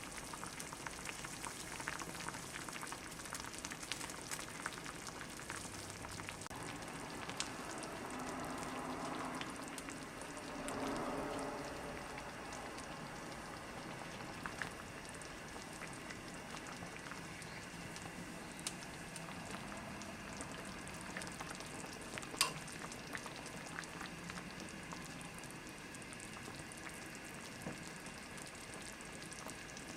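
Stew cooking in a ttukbaegi earthenware pot, sizzling and bubbling with a steady hiss and scattered crackles. It swells a little about a third of the way in, and there is one sharp clink about two-thirds through.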